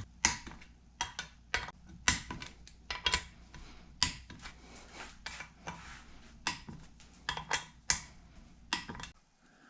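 Irregular metallic clicks and clinks of small parts and hand tools being handled on a Toyota 22R engine while its camshaft clearances are checked.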